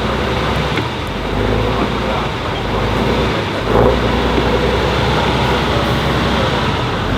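Heavy off-road trial truck's diesel engine labouring steadily as the truck crawls through rough terrain, with a brief surge about halfway through.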